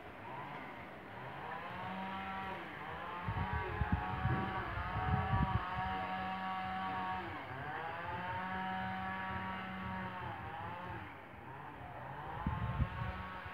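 A motor running, its pitch rising and falling again and again as if revved, over a steady low hum, with a few low thumps partway through and again near the end.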